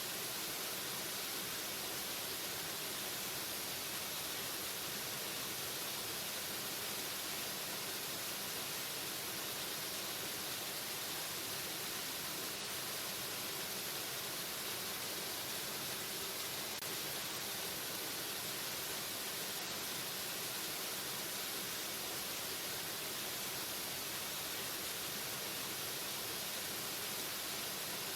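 Waterfall: a steady, unbroken rush of falling water, bright and hissy, with no change in level.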